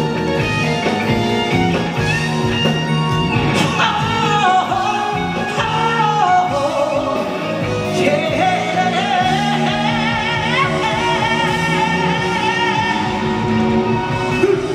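Live band playing the outro of a pop ballad: steady held chords under a lead melody line that slides and wavers in pitch.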